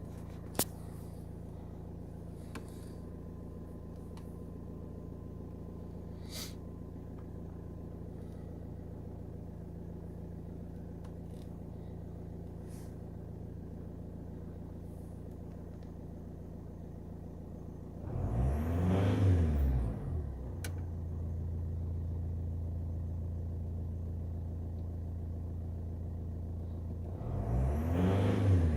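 Opel Y22DTR 2.2-litre four-cylinder turbodiesel idling steadily. It is blipped twice, about 18 s in and again near the end, each time rising in pitch and falling back to idle, as part of an engine diagnosis.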